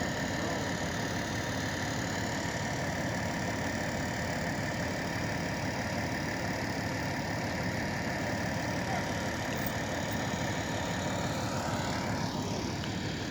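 An engine running steadily, with a tone that falls in pitch near the end.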